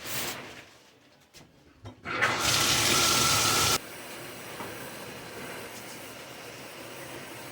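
Water running. A loud rush starts about two seconds in and cuts off sharply near four seconds, then a quieter, steady flow carries on.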